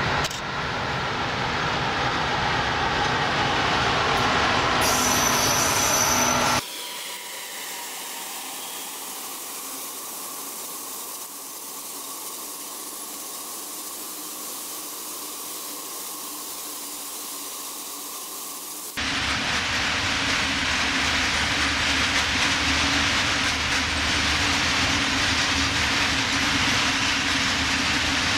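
A long freight train of covered hopper wagons rolling past behind an electric locomotive: a dense rumble of wheels on rail with a brief high wheel squeal about five seconds in. The sound drops suddenly to a quieter, duller rolling for about twelve seconds, then returns just as suddenly at full strength.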